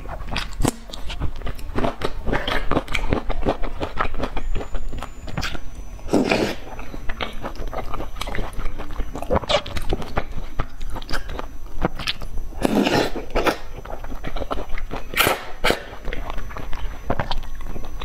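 Close-up eating sounds: a person chewing and crunching mouthfuls of sauced rice with mushrooms and a raw garlic clove, with wet mouth clicks throughout and a few louder scraping sounds.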